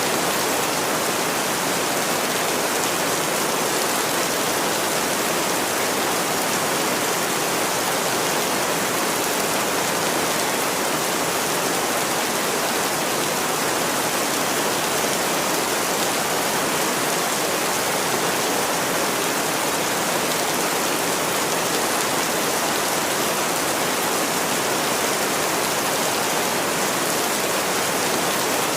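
Steady, even rainfall noise with no distinct drops or events.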